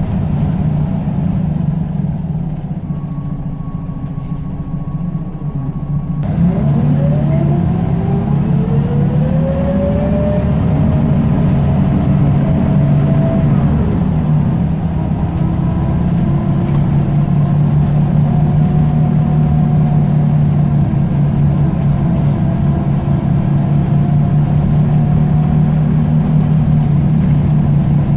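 Scania L94UB bus engine slowing and running low for a few seconds, then pulling away about six seconds in with a rising engine note through the gears, and settling to a steady run.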